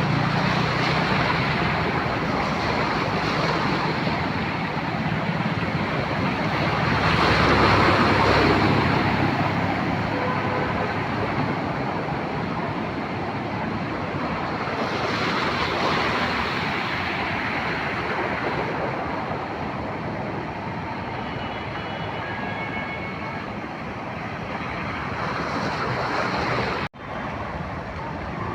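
Road traffic: vehicles passing with a steady rushing noise that swells louder about 8 seconds in and again about 16 seconds in. It breaks off sharply for a moment near the end.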